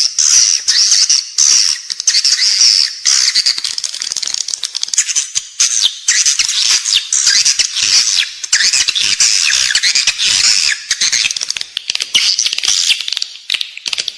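Edible-nest swiftlets twittering: a dense, continuous chatter of high chirps, trills and clicks. It is a lure-call recording played inside a swiftlet house to draw the birds in to roost and nest.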